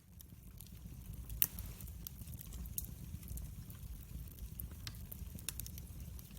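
Wood fire burning in a fireplace: a low steady rumble of flames with irregular crackles and small pops from the burning logs, the loudest pop about a second and a half in.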